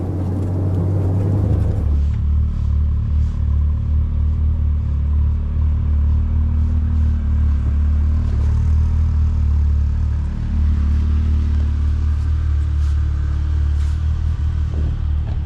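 A Jeep being driven: a steady low engine and road rumble.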